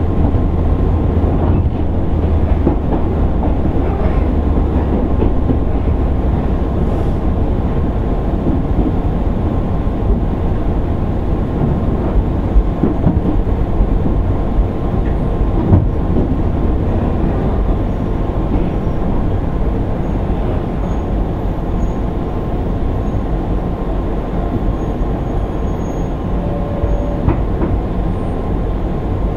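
Running noise heard inside a JR 205 series 600 subseries motor car on the move: a steady low rumble of wheels on rail and traction gear, with a few sharp knocks partway through.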